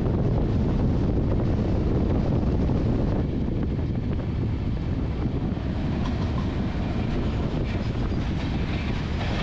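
Wind rushing over the microphone and the steady rumble of the Howrah Rajdhani Express running at about 100 km/h, heard from the coach's open door.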